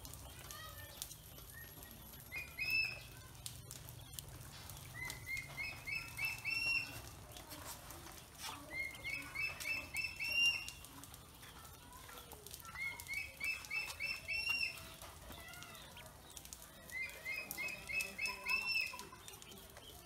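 A bird chirping in five runs of rapid short notes, each run rising slightly in pitch and lasting a second or two, repeated about every four seconds.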